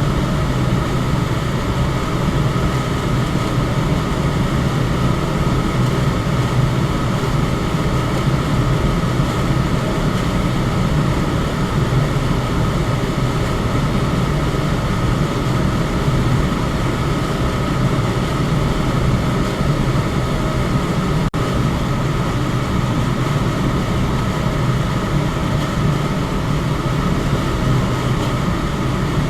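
Electric fan running steadily: a continuous low whooshing drone of moving air with a faint steady hum, barely interrupted by a momentary dip about two-thirds of the way through.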